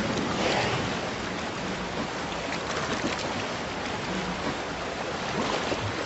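Open-sea ambience: waves washing in a steady rush of water, with a slightly stronger swell about half a second in.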